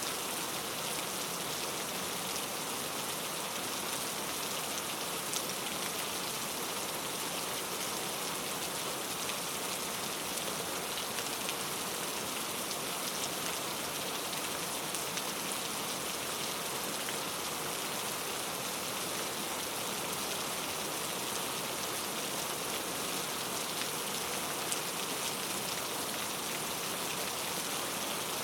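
Steady rain falling on a surface, an even hiss with faint individual drop ticks.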